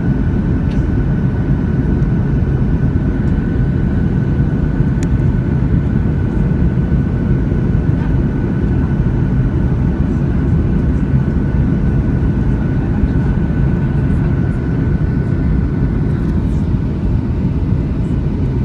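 Cabin noise inside a Boeing 737-600 in flight near landing: a loud, steady rumble of its CFM56 jet engines and airflow, with a steady whine that fades away near the end.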